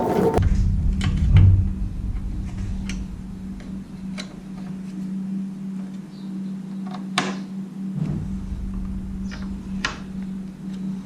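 Scattered light clicks and knocks of metal parts and bolts being handled during assembly, over a steady low hum. A low rumble comes in briefly at the start and again about eight seconds in.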